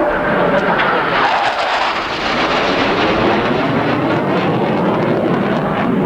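Jet noise from an F-15C Eagle's twin Pratt & Whitney F100 afterburning turbofans as the fighter flies past: loud and steady, with a sweeping, phasing shift in its tone.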